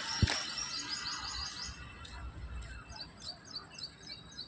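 A small bird chirping in quick runs of short, high notes, about six a second, in two bursts. A single sharp knock sounds about a quarter of a second in.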